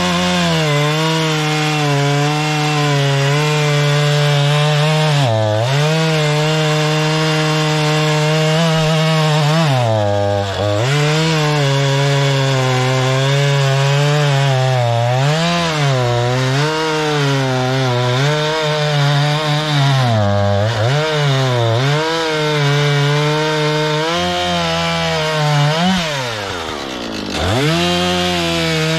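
Two-stroke chainsaw cutting wood at full throttle, its pitch sagging repeatedly as the chain loads in the cut and recovering. Near the end the engine drops briefly toward idle, then revs back up.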